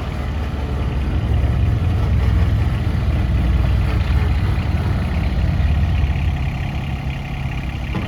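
Yanmar SA223 compact tractor's diesel engine running steadily, a little louder through the middle seconds.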